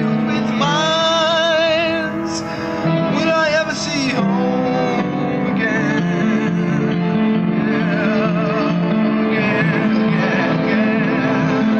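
Live band music: singing with a wavering vibrato held over guitar and a sustained lower accompaniment, steady in level throughout.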